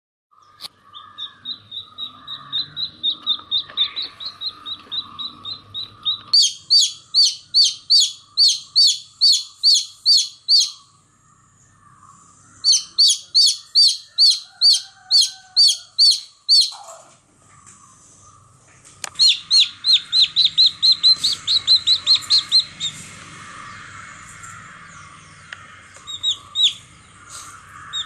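Baby chicks peeping: loud, high, evenly spaced peeps at about three a second, coming in runs of several seconds with short pauses between them, the first run softer.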